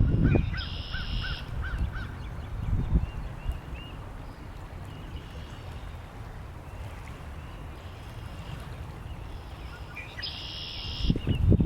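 Wild birds calling by a lake: runs of short repeated chirps and two brief harsh calls, about a second in and near the end. Wind gusts rumble on the microphone at the start and again near the end.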